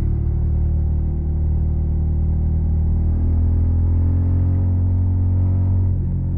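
Suzuki SV650's 90-degree V-twin running through a Yoshimura Alpha carbon exhaust, holding a fairly steady engine speed. The note drops briefly near the end.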